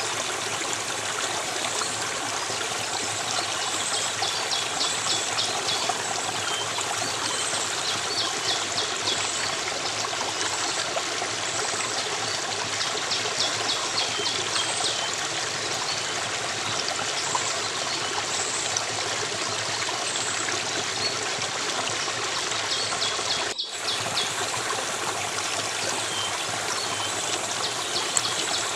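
Steady rushing of a flowing stream, with short high rapid trills repeating every few seconds over it. A brief dropout in the sound about 24 seconds in.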